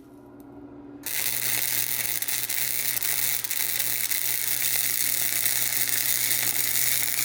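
Wire-feed welder laying a bead on exhaust pipe: a steady, dense crackle of the arc starting about a second in and running to the end, over a low steady hum.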